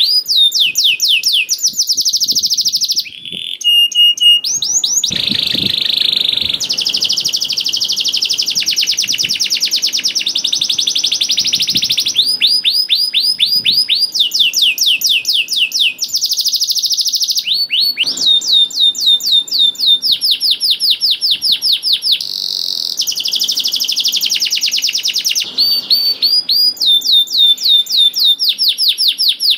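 Domestic canary singing a long, unbroken song of rapid trills. Each phrase is a fast run of repeated notes, and the bird switches to a new phrase every second or two.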